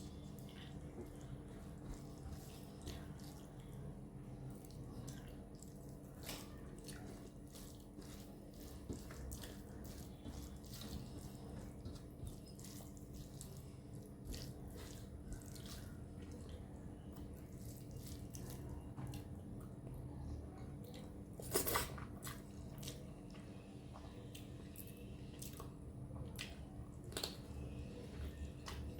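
Close-up eating sounds of chicken curry and rice: wet chewing and lip-smacking clicks, scattered throughout, with a louder cluster of smacks about 22 seconds in. A steady low hum runs underneath.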